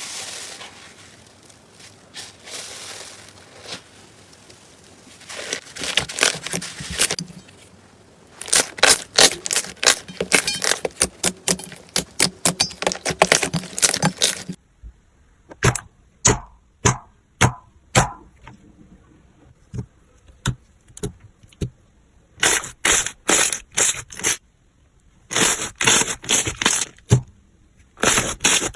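Slime being squeezed and poked, crackling and popping: scattered clicks at first, then a dense run of crackles, then after a break single sharp pops and short bursts of crackling.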